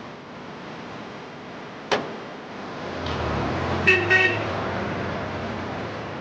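A car horn honks twice in quick succession about four seconds in, over the steady noise of a moving car whose engine rises about three seconds in. A single sharp click comes about two seconds in.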